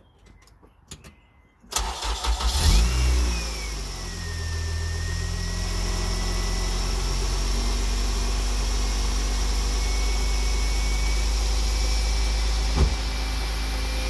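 Honda K20Z1 2.0-litre inline-four engine cranking and catching about two seconds in, flaring briefly, then settling into a steady idle with a thin whine over it. A few faint clicks come before the start, and a single short knock comes near the end.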